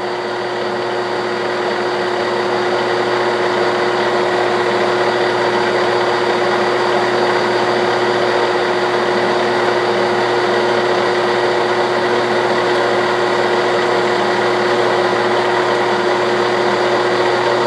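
A 1967/68 Clausing Colchester 1340 lathe, driven by its 3-phase motor, running steadily while taking a turning cut in steel. It makes a constant hum with a steady tone over a hiss. It grows a little louder over the first couple of seconds, then holds level.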